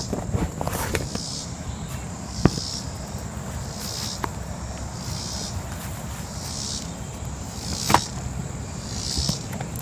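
Manual air pump inflating a chamber of an inflatable raft: a rush of air with each stroke, about one stroke every second and a half, with a couple of sharp knocks along the way.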